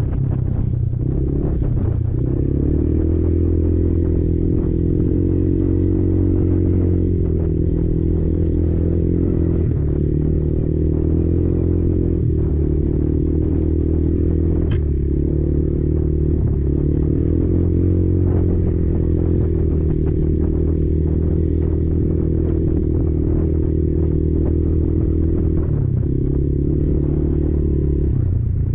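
Kymco Maxxer 300 quad's engine running under steady throttle, its pitch shifting now and then. Short clattering knocks from the machine riding over rough ground come through above it.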